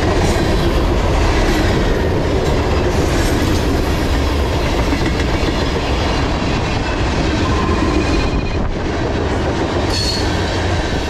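CSX freight train's tank cars and covered hoppers rolling past at about 42 mph: a steady rumble of steel wheels on rail with clickety-clack and a few brief wheel squeals. The noise eases slightly near the end as the last cars approach.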